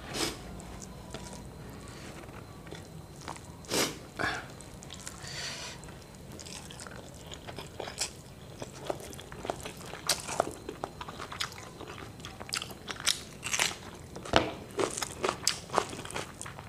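Close-up chewing and crunching of fried tilapia eaten by hand, heard as irregular crisp clicks and mouth smacks that come faster in the second half.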